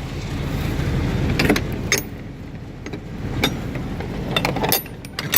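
Carrier Supra 644 truck refrigeration unit running with a steady low rumble, broken by several short, sharp clicks and knocks.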